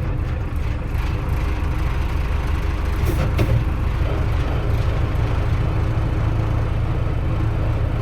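Mercedes-Benz Unimog U1300L's inline-six diesel idling steadily, seconds after a cold start.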